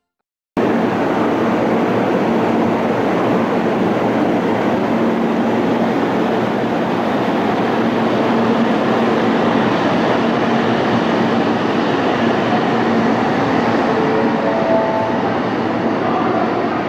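Steady, even rushing noise of a Kyushu Shinkansen 800-series train at the station platform, with a faint steady hum underneath. It starts about half a second in.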